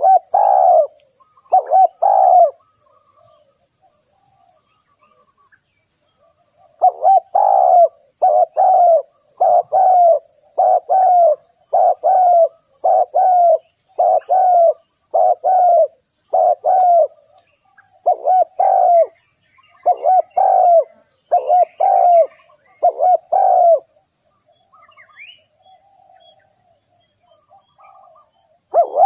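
Spotted dove cooing as a decoy call: three short coos, a pause of several seconds, then a long, even run of about seventeen coos at roughly one a second, which stops some seconds before the end.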